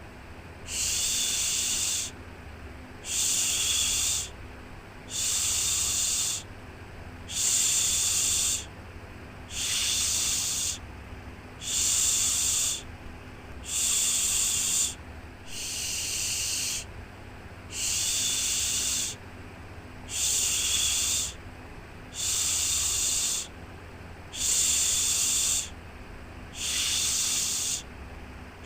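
A repeated 'shhh' shushing sound for soothing a baby. Each hiss lasts just over a second and comes back about every two seconds, about thirteen times, over a faint steady low hum.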